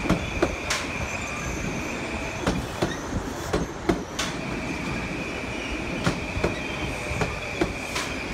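Metro-North M8 electric train passing close by: a steady high whine over a rolling rumble, with irregular clacks of the wheels over the rail joints. The whine drops out for about a second, a little past the three-second mark.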